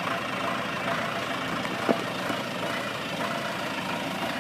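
Engine idling steadily, with one sharp click about two seconds in.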